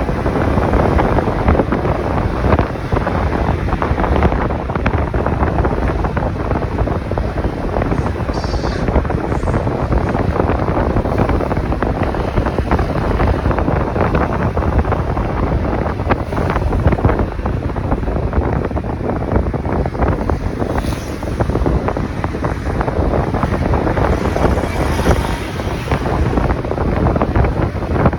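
Wind buffeting the microphone of a camera on a moving motorcycle: a loud, steady rush with no let-up, with the motorcycle's own running noise underneath.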